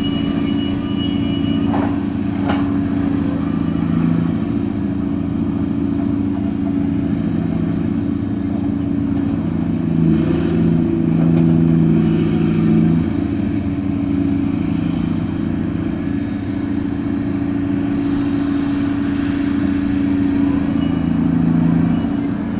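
Ship's engine running steadily while the grab crane works cargo, rising in load and shifting pitch for a few seconds near the middle. Two short knocks come about two seconds in.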